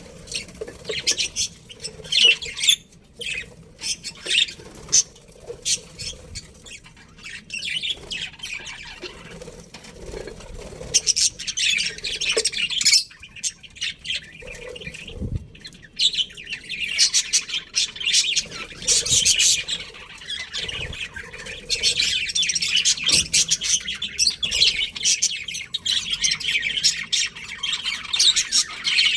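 A colony of budgerigars chirping and chattering, a dense, busy warble of many birds with sharper squawks, growing fuller and louder in the second half.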